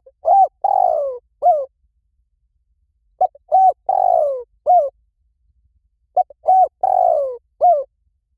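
Spotted dove calling: the same cooing phrase three times, about three seconds apart, each a few short coos around one longer coo that falls in pitch.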